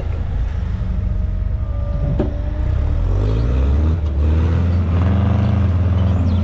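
Heavy equipment engine pulling a stuck car out of deep snow: it runs low at first, revs up about three seconds in under load, then holds at higher revs.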